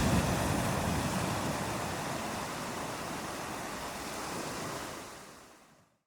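Ocean surf washing onto a beach, loudest at the start and slowly ebbing, then fading out to silence just before the end.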